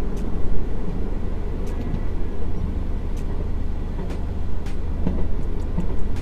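Diesel multiple-unit (DMU) train running along a station platform as it comes into a halt: a steady low rumble with a few sharp clicks.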